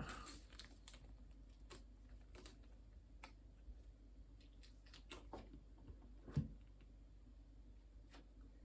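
Faint, scattered clicks and taps of small plastic Lego pieces being handled and pressed together, with a louder knock about six and a half seconds in.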